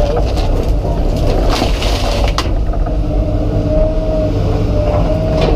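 Komatsu PC200 excavator's diesel engine running steadily, with a brief higher whine about four seconds in.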